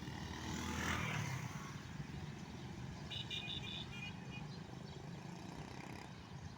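A road vehicle passes close by about a second in, over a steady low rumble of traffic. A quick run of high-pitched chirps or beeps comes around three seconds in.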